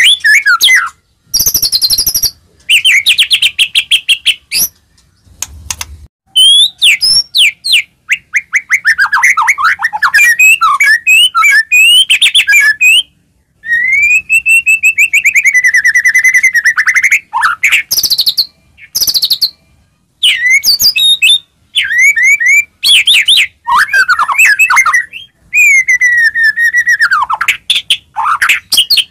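White-rumped shama (murai batu) singing loudly in varied phrases of rapid trills and sweeping, rising and falling whistles, with short breaks between phrases. It is a song played to provoke other shamas into singing.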